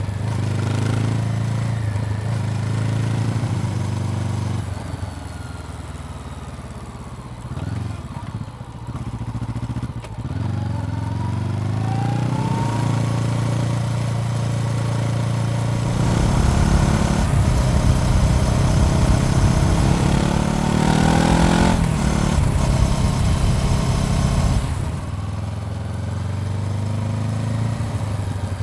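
Honda CBR400R's parallel-twin engine running at low revs, then accelerating with the revs climbing about two-thirds of the way through, and settling back to a steady low tick-over near the end.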